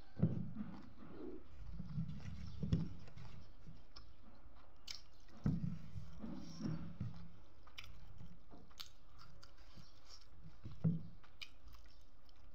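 A person chewing and biting food close to the microphone, with wet mouth sounds and small clicks. Three louder dull thuds come just after the start, about five and a half seconds in, and near the end.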